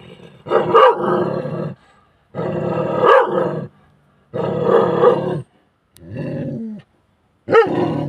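A dog barking and growling aggressively in about five long, harsh bursts with short pauses between them.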